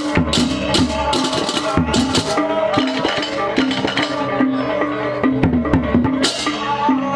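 Balinese processional gamelan (baleganjur) playing: ringing gong and metallophone tones over drums, with repeated crashes of clashing hand cymbals.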